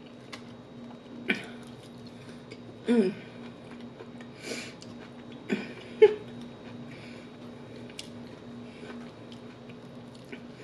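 Close-up eating sounds: wet chewing, with a few short clicks of a plastic fork against a foam takeout container and a couple of brief hums from the eater, over a steady low hum.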